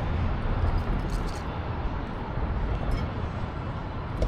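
Steady city street noise with a low rumble of traffic and a few faint clicks.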